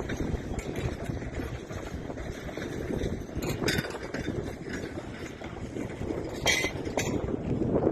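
Narrow-gauge train running, a steady rumble with a few sharp metallic clanks, the loudest about two thirds of the way in.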